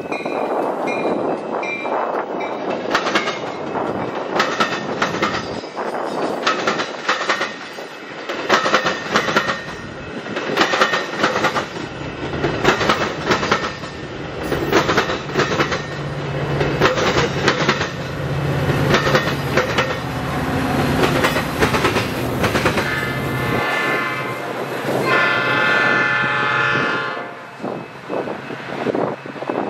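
Metra commuter train of bilevel passenger cars passing close by, its wheels clicking rapidly over the rail joints, with the low drone of the diesel locomotive pushing at the rear coming through in the second half. Near the end a train horn sounds, a short blast and then a longer one.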